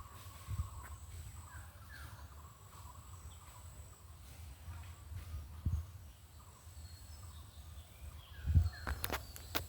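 Outdoor forest ambience: a steady low rumble of wind on the microphone, with a few faint bird chirps in the first seconds and a thin, steady high insect-like tone. A few thumps and sharp clicks come near the end.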